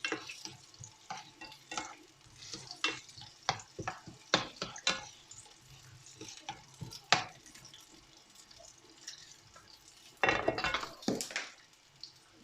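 Chopped onions frying in hot vegetable oil in a pan, stirred with a utensil that clicks and scrapes irregularly against the pan over a light sizzle. About ten seconds in there is a louder rush of noise, typical of the onions being turned or tossed.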